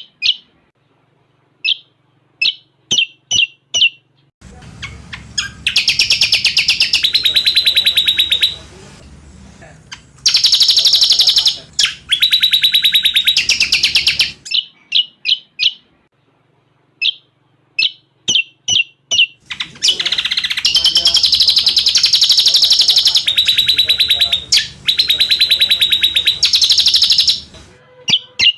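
Cucak combok birdsong mixed with cililin phrases, played as a training recording. Runs of short, sharp chirps alternate with three long, loud, very rapid trills, each lasting several seconds.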